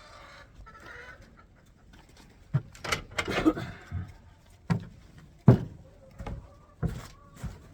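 Chickens clucking, with a run of sharp knocks and thuds about once a second from about two and a half seconds in.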